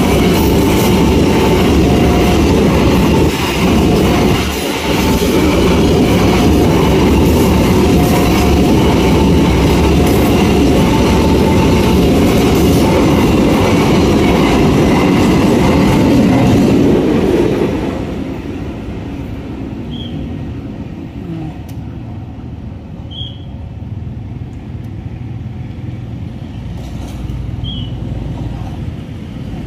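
Freight train of flat wagons rolling past a level crossing: a steady rumble and clatter of wheels on rails, with a repeating two-note warning tone over it. The train clears about 17 seconds in, leaving quieter background noise with a few short high chirps.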